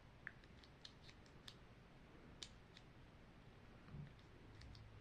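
Faint, irregular light clicks and taps of small plastic pieces being handled: tiny toy drawers being tried in a miniature plastic shelf unit.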